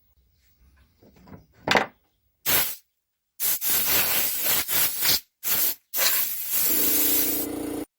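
Wood being worked with a tool: a sharp click, then a run of loud scraping bursts of noise, with a steady hum joining in during the last second before it cuts off suddenly.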